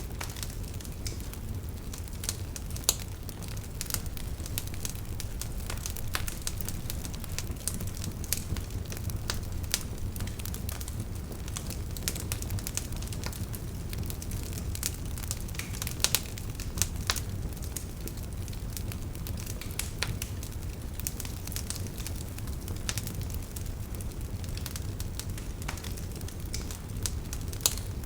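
Wood fire burning in a fireplace: a steady low rumble of the flames with irregular crackles and pops throughout.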